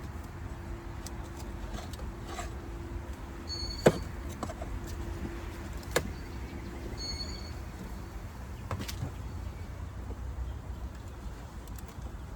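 Wooden package of bees being handled and pried open: two sharp clicks about four and six seconds in and a softer one later, over a faint steady hum of bees and a low rumble of wind on the microphone.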